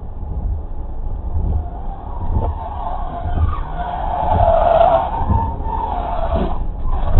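Car tyres skidding on the road for about three seconds, loudest around the middle, over the steady low rumble of a car on the move.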